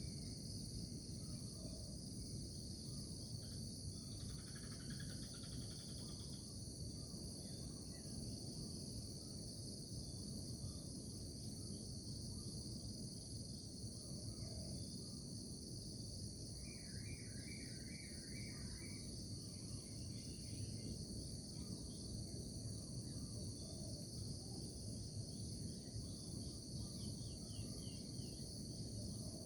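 Insect chorus trilling steadily at a high pitch over a low background rumble, with a few short chirps scattered through it, including a quick run of repeated notes about two-thirds of the way through.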